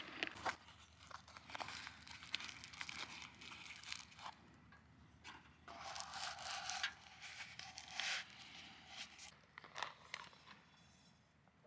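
Camping gear being handled at close range: irregular rustling and crinkling of bags or fabric with scattered small clicks and knocks, and a brief higher rasp a little past the middle.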